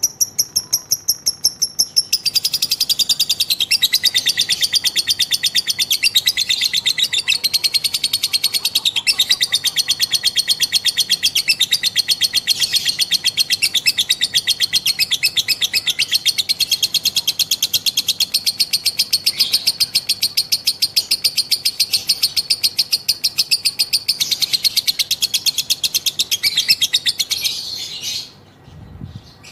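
Female lovebird's long 'ngekek': a rapid, high-pitched chattering trill of evenly repeated notes, kept up without a break for more than twenty seconds, that cuts off abruptly near the end.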